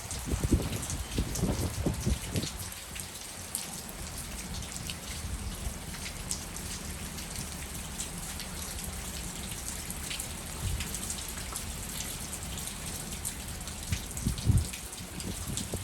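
Heavy rain in a thunderstorm: a steady hiss and patter of drops on surfaces. Low rumbling surges come in the first couple of seconds and again about fourteen seconds in.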